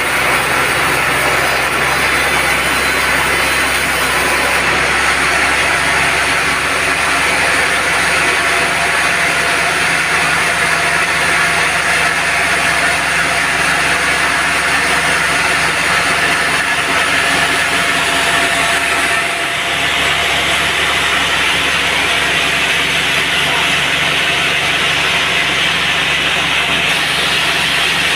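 Band sawmill running steadily, its motor and band blade making a loud, continuous mechanical noise with a strong hiss; the sound briefly dips and changes character about nineteen seconds in.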